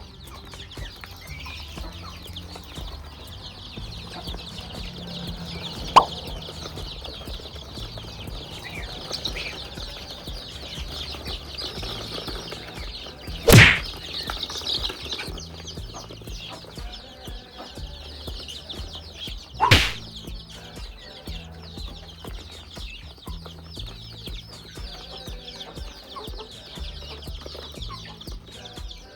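Chickens clucking over a steady high-pitched chatter of background calls, with two loud short bursts about halfway and two-thirds of the way through.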